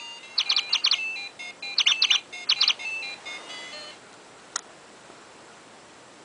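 Electronic chirping from a motion-activated toy bird: quick, high chirps in groups of three or four, with held electronic tones between them, ending after about four seconds. A single sharp click follows soon after.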